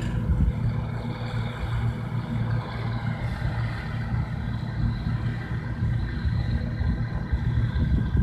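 Bizon Z056 combine harvester's diesel engine running steadily with a deep, even rumble.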